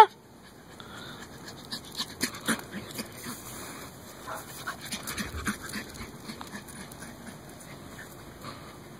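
A dog panting, with many short irregular clicks and taps that are loudest between about two and six seconds in and then fade.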